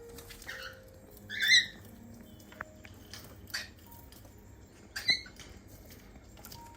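Cockatiels giving two loud, short chirps, about a second and a half in and about five seconds in, over scattered light tapping and pattering of water as they bathe.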